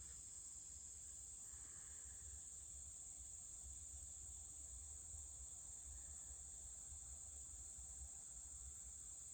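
Faint, steady high-pitched trill of crickets over a low rumble.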